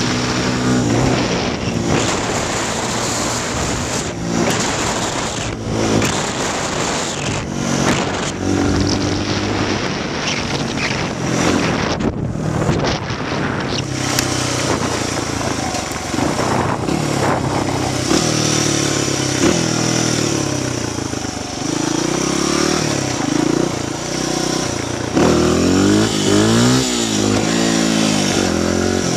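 Honda XR100 dirt bike's single-cylinder four-stroke engine being ridden, revving up and dropping back again and again as the throttle opens and closes, with wind rushing over the helmet-mounted microphone.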